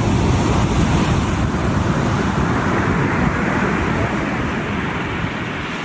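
Loud, steady rushing noise that eases off near the end.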